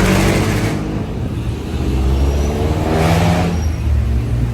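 Road vehicle engines running with a steady low rumble, one engine revving up about three seconds in with a rush of passing-traffic noise.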